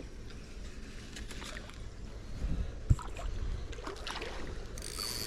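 Water sloshing around legs wading through a shallow creek, with small knocks throughout and one sharp thump about three seconds in.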